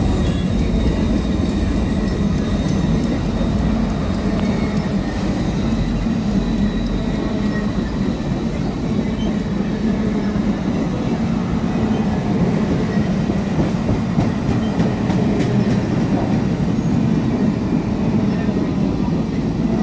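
Passenger cars of the Ringling Bros. circus train rolling past at close range: a steady rumble of steel wheels on rail, with a faint high wheel squeal over it.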